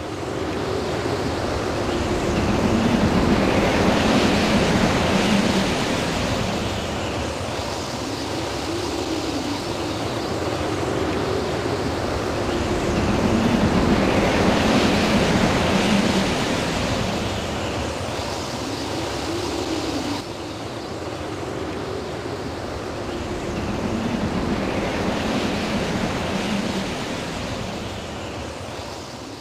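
Storm wind gusting with rain, a loud rushing noise that swells and eases every several seconds.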